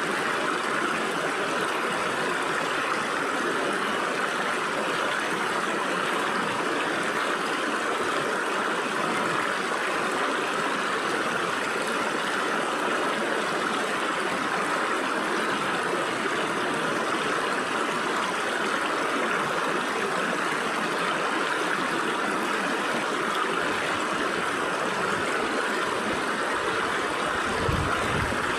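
Stream water flowing steadily through gaps between rocks, an even rushing babble.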